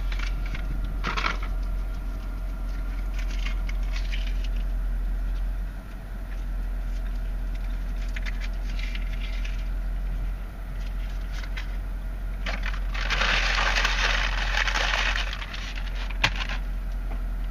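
Steady low rumble inside the cabin of a 2013 Dodge Charger SRT-8 idling in a queue, with rustling handling noises. A louder hiss lasts about three seconds late on and is followed by a single sharp click.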